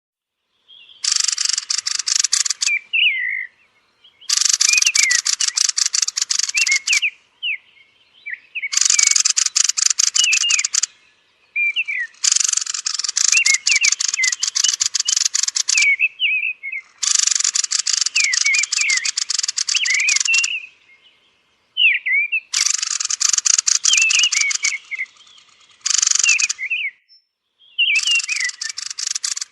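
Thrush (Turdus) roosting calls: repeated bursts of harsh, rapid chattering, each two to four seconds long, alternating with short, thin downward-sliding whistles.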